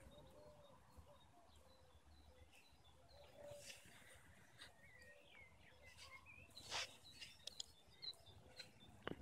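Faint outdoor ambience with birds chirping softly in short, scattered calls, and a few soft clicks later on.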